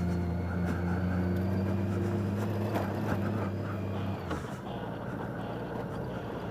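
Motorcycle engine running steadily at low revs, its note dropping away about four seconds in to a quieter, rougher hum.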